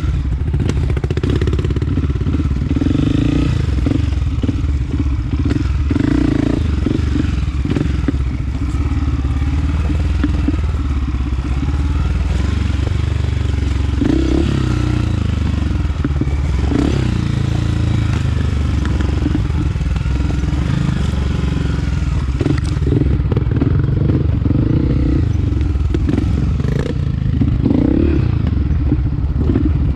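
Honda CRF250F single-cylinder four-stroke dirt bike engine running under a rider, its revs rising and falling with the throttle over rough trail, with occasional knocks and clatter from the bike.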